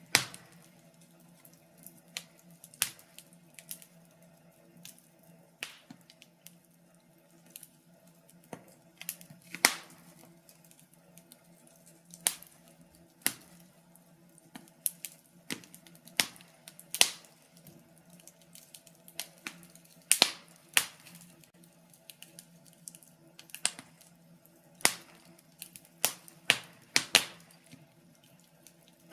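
Fire crackling in a fireplace: irregular sharp pops and snaps, a few a second at most, over a faint steady low hum.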